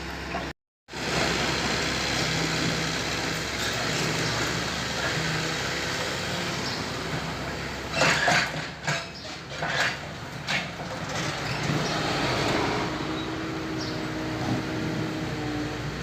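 A machine running steadily, cut off briefly by a short dropout just under a second in, with a few louder bursts of noise about halfway through.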